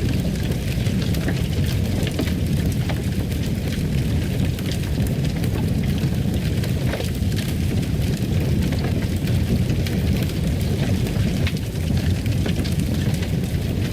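Fireplace crackling: a steady low rumble of the fire with frequent small pops and crackles scattered throughout.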